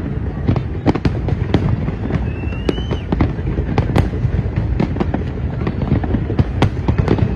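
Aerial fireworks bursting in quick succession: many sharp bangs and crackles over a continuous rumble.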